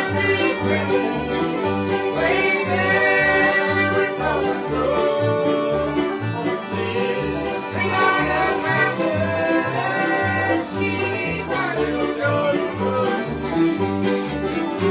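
Bluegrass band playing an instrumental number: fiddle carrying a sliding melody over picked strings, with a bass holding a steady alternating beat.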